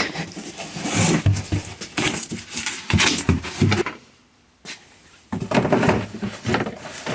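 Cardboard being handled and laid out as a makeshift welding surface: irregular rustling and scraping with a few dull knocks, pausing briefly about four seconds in.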